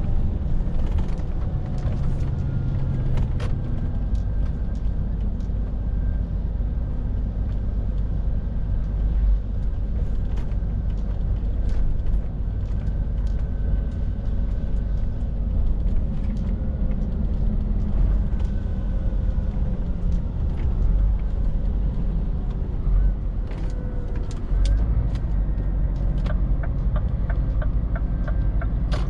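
Scania R450 lorry's six-cylinder diesel engine running steadily under way: a continuous low rumble whose pitch drifts slowly up and down. Scattered short clicks and creaks throughout, with a quicker run of regular clicks near the end.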